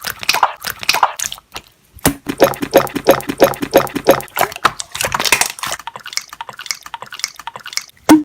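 Slime being squeezed and poked by hand, making a rapid run of short wet squelching pops, about four a second, with a brief pause about a second in. Near the end the pops turn into quicker, fainter clicks.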